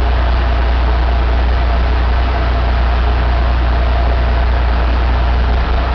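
Caterpillar 3406B inline-six diesel engine running steadily at idle, a deep even drone.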